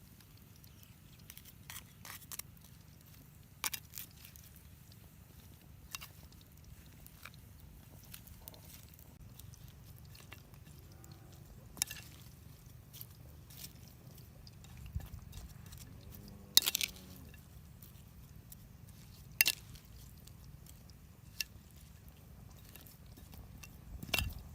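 Someone eating: quiet chewing with sparse sharp crunches and clicks, the loudest two about two-thirds of the way through.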